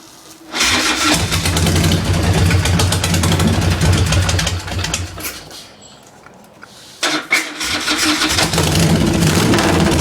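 A 120 cubic inch Harman shovelhead V-twin motorcycle engine with handmade pipes being started: it catches about half a second in and runs loud, dies away about five seconds in, then fires again about two seconds later and keeps running.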